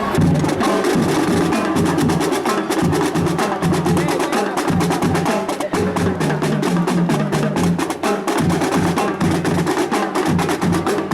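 A school marching drum band playing percussion: rapid, dense snare and woodblock-like strokes over repeating low drum beats, going on without a break.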